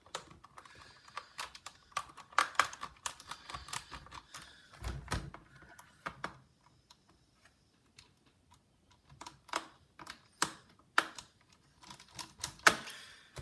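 Irregular small clicks and taps of a precision screwdriver and tweezers on a laptop's plastic case while a stubborn screw is worked back in, with a quiet pause about halfway through.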